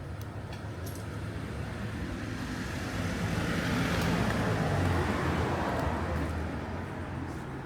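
A road vehicle driving past, its engine and tyre noise growing louder to a peak about halfway through and then fading away.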